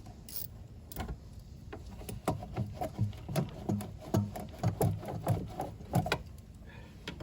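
Hand work on the air intake under the hood: a run of sharp clicks and light knocks of tools and plastic parts, about two or three a second, starting about two seconds in and stopping about a second before the end.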